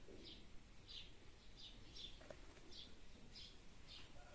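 Faint high chirps repeating about twice a second, a small bird calling, over a quiet background hiss.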